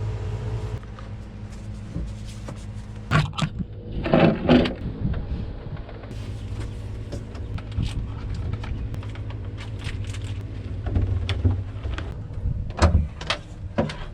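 Scattered knocks, clicks and handling noises over a steady low hum, with a louder cluster of knocks about four seconds in and again near the end.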